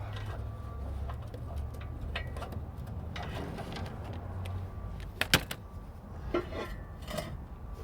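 Scattered metallic clicks and knocks of hand tools and exhaust parts being worked under a car, with one sharp clank about five seconds in, over a steady low hum.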